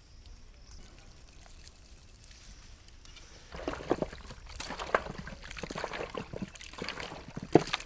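Chicken pieces being mixed by hand in a wet marinade of curd, lemon juice and rock salt. After about three and a half seconds of near quiet, irregular squelching and wet clicks begin and grow louder.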